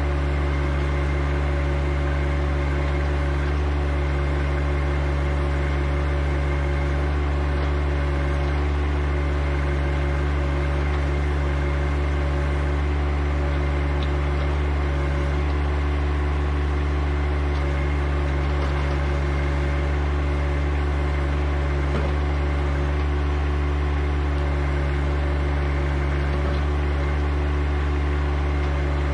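John Deere 1025R compact tractor's three-cylinder diesel engine running at a steady speed, a constant low drone.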